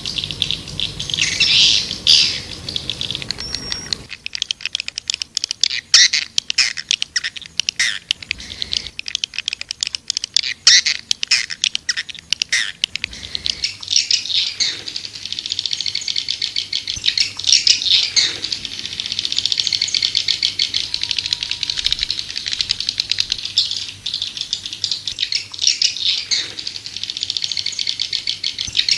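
Swiftlets twittering in dense, rapid clicking trills and chirps, the chattering call used as a lure for swiftlets. The low background hiss drops away about four seconds in.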